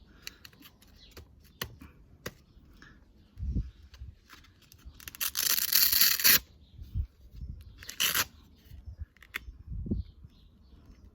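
A sandpaper disc being handled and pressed onto a random orbital sander's hook-and-loop pad: light clicks and rustles, with a long ripping sound about halfway through and a shorter one a couple of seconds later.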